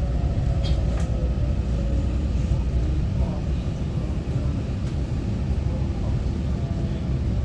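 Steady low rumble inside a Taiwan Railway EMU900-series electric multiple unit's passenger cabin, with a faint motor whine that fades out just after the start.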